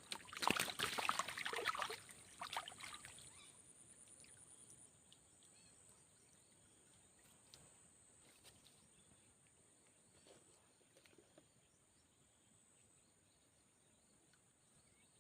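Short crackling, sloshing handling noises at the water's edge for the first few seconds, fading away into silence.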